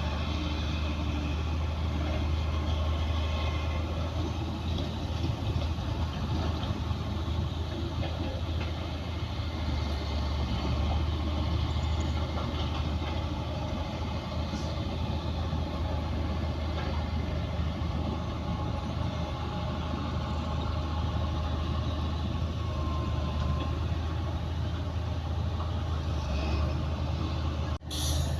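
Heavy earthmoving machinery's diesel engines running steadily with a low rumble, cutting out for an instant near the end.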